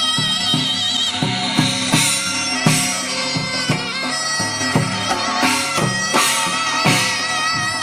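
Korean shamanic ritual music: a reed wind instrument plays a held, wavering melody over steady drum strikes.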